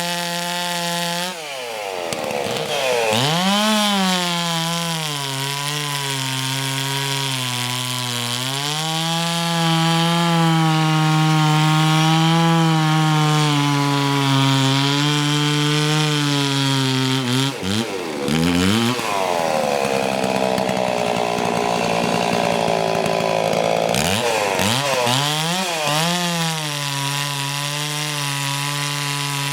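Farmertec MS440 clone chainsaw's two-stroke engine running, its pitch rising and falling as the throttle is worked, with a brief drop about eighteen seconds in and a rougher stretch of several seconds after it.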